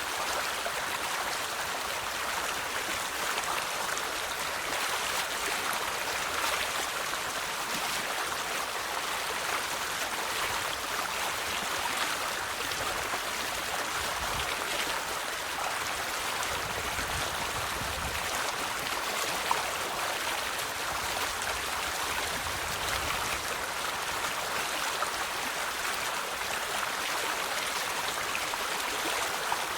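River water flowing steadily over rocks, a continuous babbling rush with small splashes and droplets.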